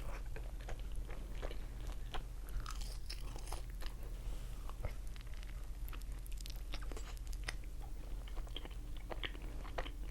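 Close-miked mouth eating sounds: a person biting, crunching and chewing food, with many small crackling clicks throughout, over a steady low hum.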